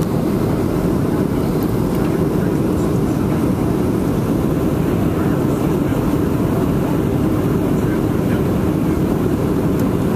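Steady low roar of cabin noise inside a Boeing 737-700 in flight on approach: engines and rushing airflow heard through the fuselage.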